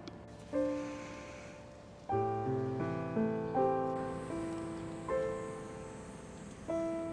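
Soft background piano music: chords struck every second or two, each left to ring and fade.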